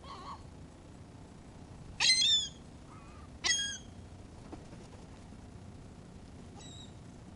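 Gulls calling: two loud calls about two seconds and three and a half seconds in, the first lasting about half a second, with fainter calls near the start and near the end.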